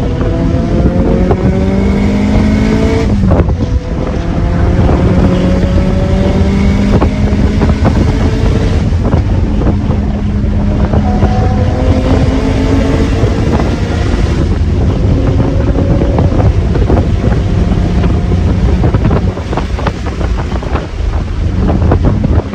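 Car engine with an aftermarket exhaust, driven hard at speed: the revs climb in several long pulls, with a brief break about three seconds in as in a gear change, over wind noise.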